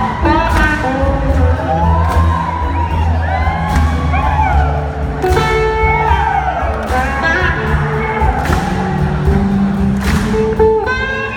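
Live blues-rock band playing: singing over electric guitar, bass and drums, with whoops and cheers from the audience mixed in.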